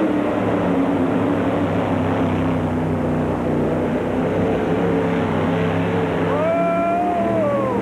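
A pulling vehicle's engine running flat out as it drags the weight sled down the track on a full pull. The engine note is loud and steady, with a higher tone that rises and then falls away near the end.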